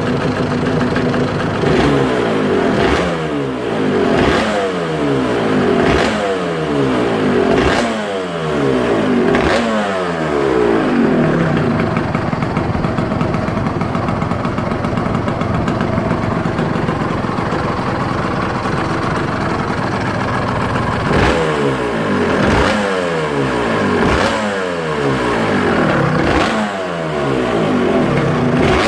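Yamaha TZR 250 3XV two-stroke V-twin engine running on its first start, blipped over and over: each rev falls back, about one every second and a half. In the middle stretch it settles to a steadier idle, then the blips resume.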